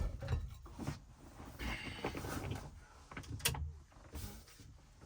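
Low rumble of distant thunder, with small rustles and a sharp click about three and a half seconds in from movement close by.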